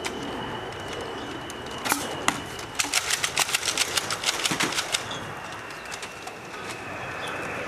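Nerf blasters firing foam darts: two single shots about two seconds in, then a rapid burst of about seven shots a second lasting roughly two seconds, over a faint steady high whine.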